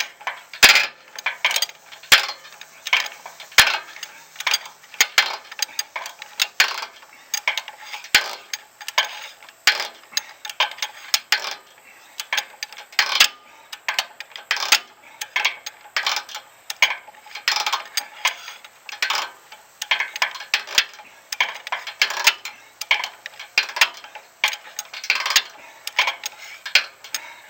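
Metal-on-metal clicking and clinking of hand tools working on the disc's bolts: a long run of sharp, irregular clicks, often in quick clusters.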